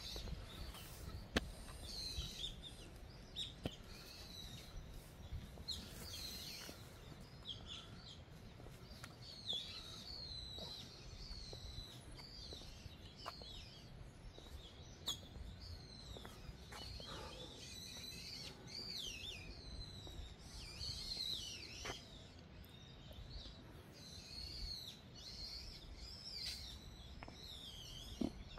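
Small birds chirping and calling again and again: short high notes, many sliding down in pitch, over a low steady rumble with a few faint clicks.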